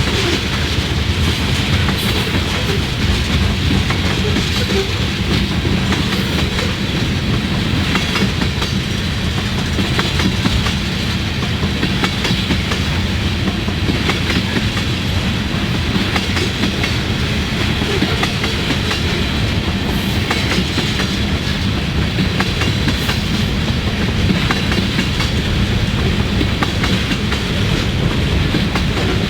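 Freight train rolling past steadily, its wheels clicking over the rail joints.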